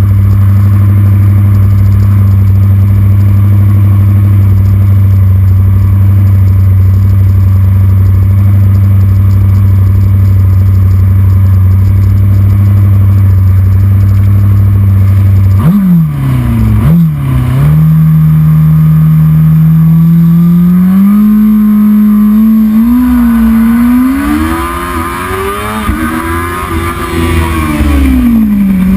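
Race motorcycle engine held at steady high revs for about fifteen seconds. Then the revs drop sharply in a few quick steps as it is downshifted for a corner, and climb again unevenly under throttle, peaking and falling back near the end.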